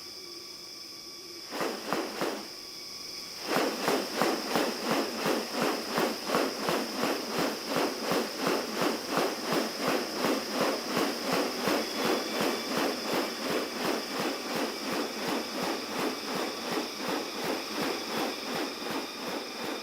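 Forest insects droning steadily at a high pitch. About three and a half seconds in, a rapid rhythmic pulsing joins them, about two to three beats a second, and it keeps on evenly.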